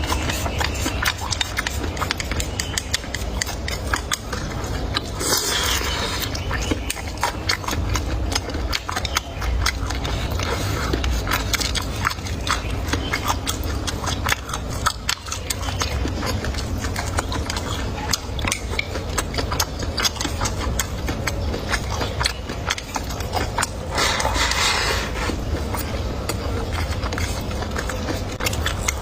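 Close-up eating sounds: continuous chewing with a dense run of small crunching clicks and mouth noises. Two louder, noisier bursts come about five seconds in and near the end.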